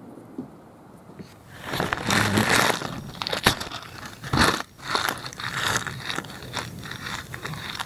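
Newspaper and dry kindling crackling and crunching in a mini fire stand as the fire is being lit: a burst of rustling about a second and a half in, then irregular sharp crackles and snaps.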